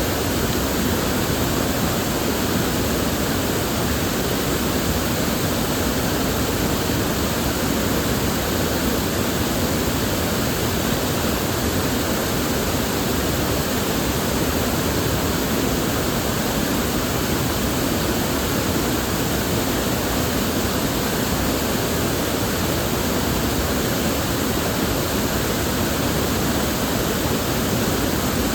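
River water flowing and rushing, a steady, even rush with no changes.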